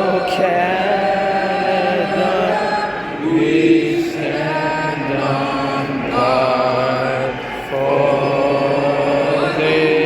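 Singing in a hockey arena: long held notes that move slowly from one pitch to the next, with no break.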